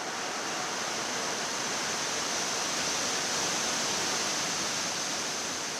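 Steady rushing cabin noise on the flight deck of a Boeing 787 in flight: airflow and air-conditioning noise, even and unbroken.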